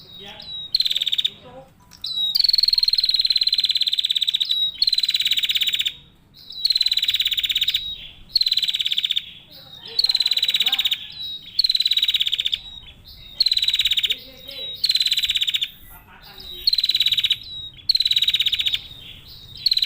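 Female prinia (prenjak) calling persistently: a long series of rapid, buzzy rattling bursts, each about half a second to two seconds long, separated by short pauses. The longest burst comes about two seconds in.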